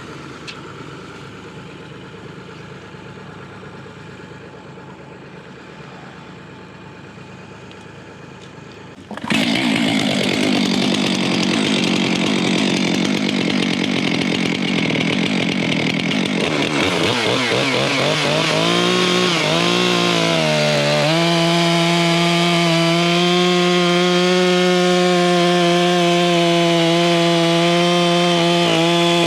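An engine idles quietly in the background, then about nine seconds in a Stihl 462 C chainsaw comes in loud, bucking a pine log to length; its pitch wavers for a few seconds and then holds steady at high revs.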